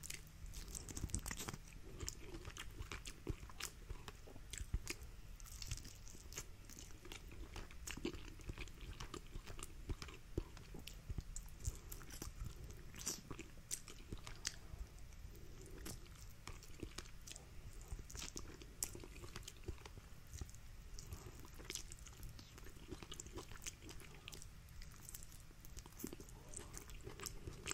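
Faint chewing and biting sounds of someone eating a rotisserie chicken drumstick, with scattered soft mouth clicks and smacks.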